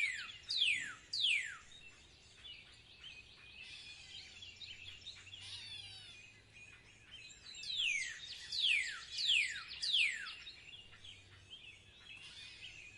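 A songbird singing a run of three or four clear whistled notes, each sliding down in pitch. It repeats the run about eight seconds in, with softer chirping in between.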